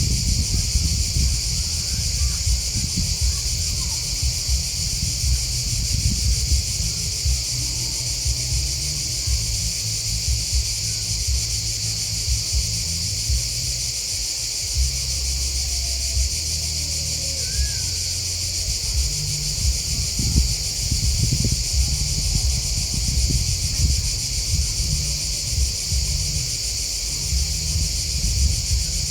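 Crickets and grasshoppers chirping in a steady, high-pitched, unbroken chorus over a low, uneven rumble.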